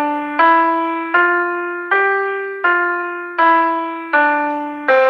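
A single-line keyboard melody from a student-made Soundtrap track: one note about every three quarters of a second, each struck and fading. The notes climb step by step up a scale to a top note about two seconds in, then step back down.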